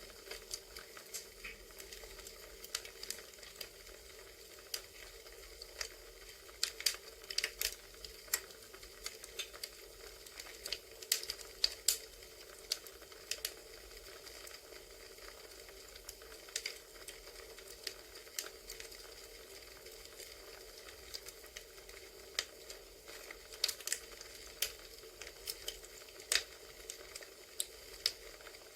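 Campfire crackling: a steady soft hiss with irregular sharp pops and snaps of burning wood, coming in clusters.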